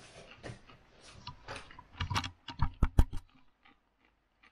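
Faint crunching of popcorn being chewed, then a quick cluster of sharp clicks and knocks about two seconds in.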